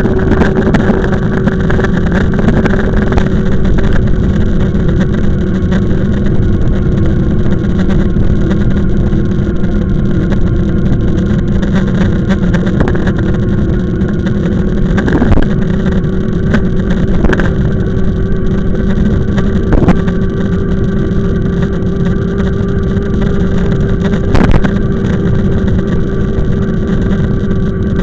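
E-bike riding at a steady speed: a constant motor hum over heavy rumble from wind and the road on the microphone, with a few sharp knocks over bumps in the second half.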